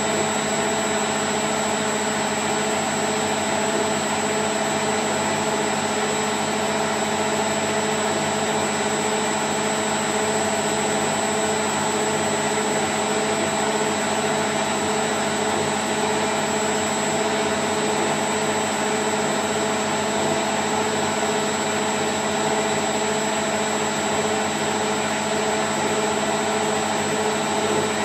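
Candy Grand O' F106 washing machine spinning at 1000 rpm: a steady whirring rush with a constant hum and a thin high whine.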